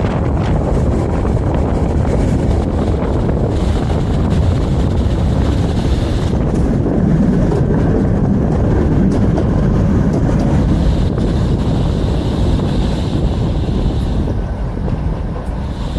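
Vario LF2R.E tram coupled with a Vario LFR.E running on its rails: a steady low rumble with wind buffeting the microphone. A faint high whine rises out of it twice and fades.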